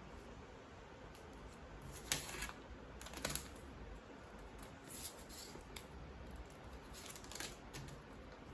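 Origami paper being folded and creased by hand: a few short, faint crinkles and rustles, the sharpest about two and three seconds in.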